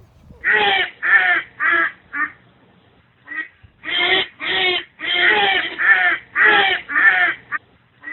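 Duck quacking: a run of harsh, nasal calls, about four in a row, then a pause, then a longer run of about eight.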